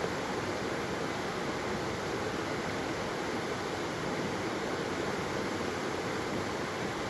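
Waterfall: water falling and flowing in a steady, even rush.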